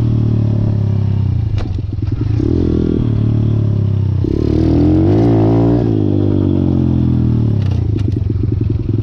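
Malcor XZ1 125cc pit bike's single-cylinder four-stroke engine running, rising in pitch for a second or so about halfway through and then dropping back to a steady note.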